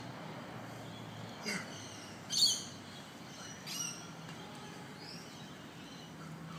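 Bird calls: four short high chirps, the loudest about two and a half seconds in, over a faint steady low hum.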